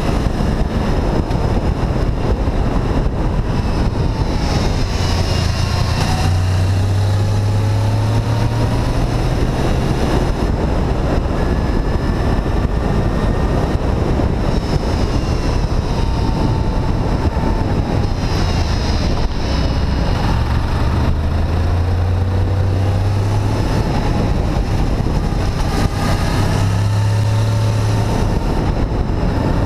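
Honda VFR800 VTEC's V4 engine heard from on board a moving motorcycle, its pitch rising and dropping back several times as the bike accelerates and changes gear, over steady wind rush on the microphone.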